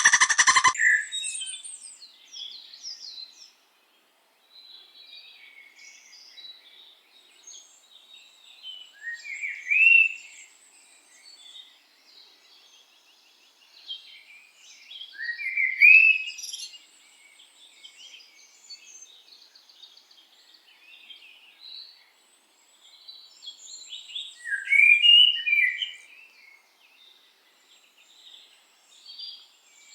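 Small songbirds chirping and singing, with many short high calls and three louder rising phrases about ten, sixteen and twenty-five seconds in. A loud sound cuts off right at the start.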